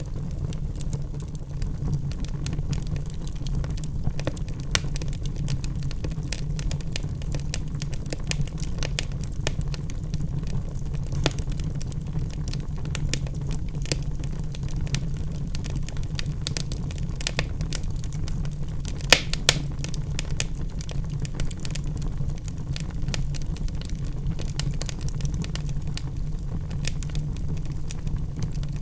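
Logs burning in a fireplace: a steady low rumble of the flames with frequent small crackles and pops, and two sharper pops about two-thirds of the way through.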